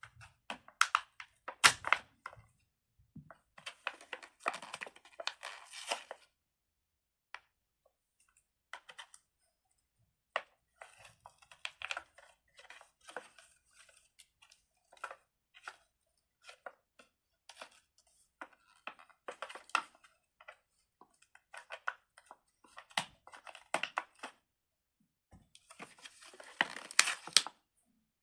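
Plastic packaging crinkling and tearing as a fidget toy is opened and handled, with many small irregular clicks and rustles in bursts separated by short pauses.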